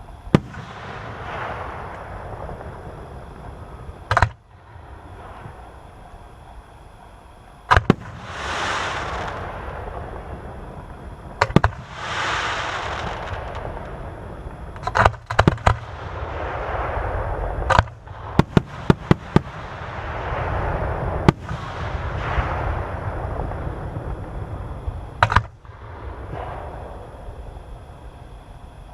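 Fireworks display: aerial shells bursting with sharp bangs every few seconds, some in quick clusters of several cracks. Longer swells of rushing noise rise and fade between the bangs.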